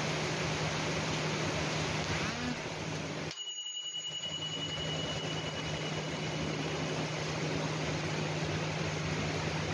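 Heavy rain falling as a steady hiss, with a low steady hum underneath. About a third of the way in the sound drops out briefly, then a faint high whistle-like tone fades away over a few seconds.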